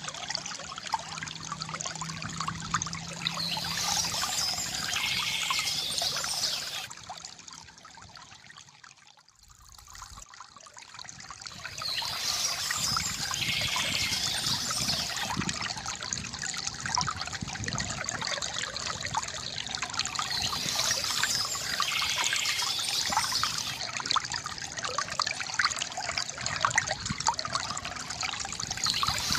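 Water trickling and gurgling from a bamboo fountain spout. It fades almost away about nine seconds in, then swells back.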